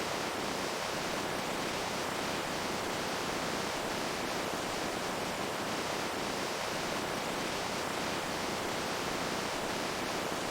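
Running water: a steady, unbroken rush with no splashes or changes.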